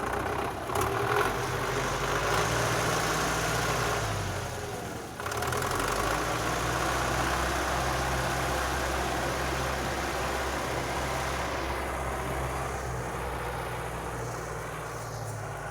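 GAZ-66 truck's engine running steadily, with a brief dip and break in the sound about five seconds in.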